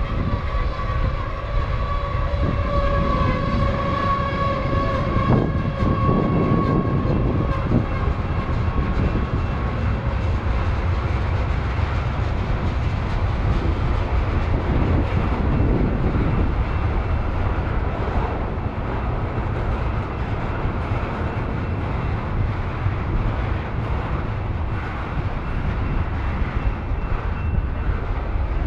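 Freight train of tank cars rolling past: a steady rumble and rattle of steel wheels on rail. A long steady high tone sounds over it at first and fades out about eight seconds in.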